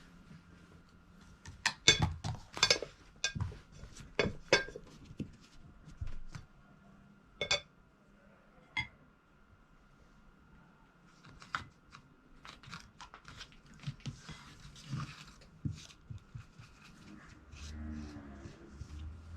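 Painting dishes clinking as a brush is worked in them: a series of sharp taps and clicks on ceramic, busiest in the first few seconds, then sparser. A low wavering tone comes in near the end.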